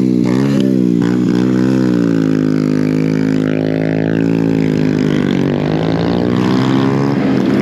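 Honda Grom mini bike's single-cylinder four-stroke engine running while ridden. The revs dip and rise quickly at first, hold steady through the middle, then rise and fall again near the end.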